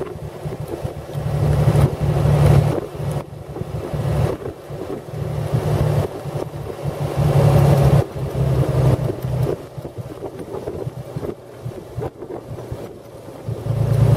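A 1917 Buick's 242-cubic-inch six-cylinder overhead-valve engine running as the open touring car drives along, with wind rumbling on the microphone. The sound swells and fades, quieter for a few seconds past the middle.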